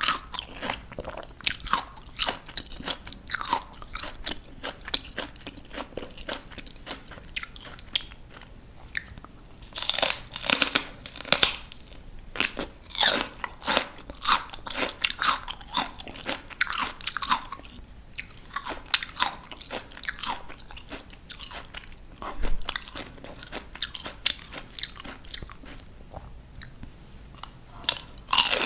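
Raw crunchy vegetables being bitten and chewed close to the microphone: a run of crisp crunches, with louder clusters of fresh bites every few seconds between steady chewing.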